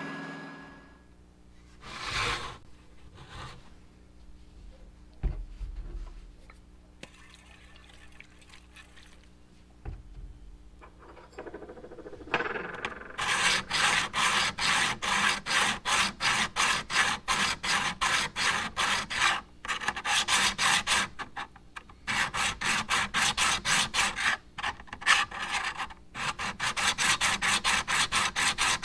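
Hand tool rubbing back and forth against a metal part in quick rhythmic strokes, about two to three a second, in runs with short pauses, starting about halfway through after several quieter seconds with a few light knocks.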